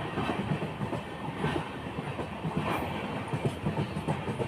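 Train running along the track, a steady rumble with irregular knocks and clatter from the wheels and carriages.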